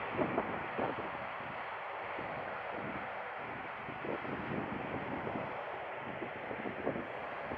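Embraer E190 twin-turbofan jet at takeoff thrust, a steady rushing engine noise, with gusts of wind buffeting the microphone.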